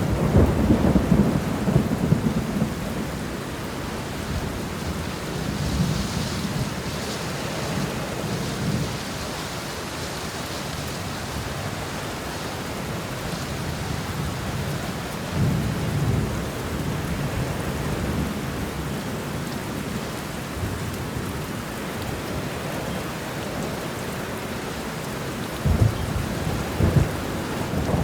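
Heavy rain falling steadily on a car's windows, with low thunder rumbling at the start and again about halfway through, and a few short low booms near the end.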